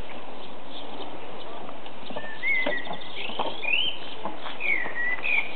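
A bird singing a few short whistled notes that slide up and down, starting about two seconds in, over a steady background hiss.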